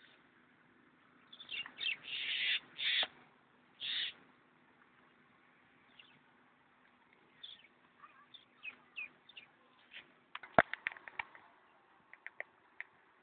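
Birds calling: a few loud harsh calls early on, then a run of short downward-sliding chirps. A sharp knock and a quick cluster of clicks come about two-thirds of the way in, with a few light ticks near the end.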